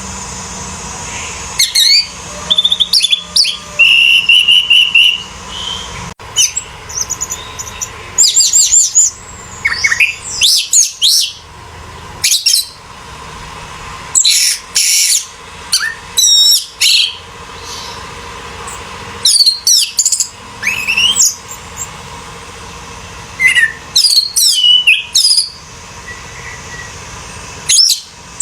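Orange-headed thrush singing: repeated bursts of fast, varied whistled phrases, each a second or two long, with short pauses between them.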